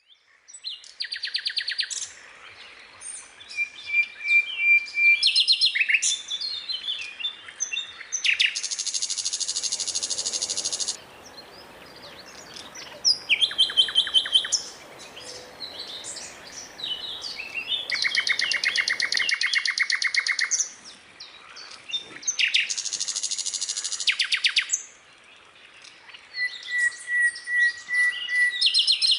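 A skylark singing a long, varied song: rapid trills of about two seconds each alternate with quick chirps and short, steady whistled notes.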